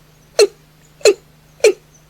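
Watercock (cúm núm) calling: three short, sharp notes, each dropping quickly in pitch, about two-thirds of a second apart, over a faint steady low hum.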